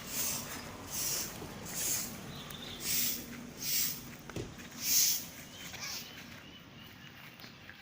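Birds calling: a run of harsh, hissy calls about once a second, with faint thin whistled notes between them; the calls stop about six seconds in.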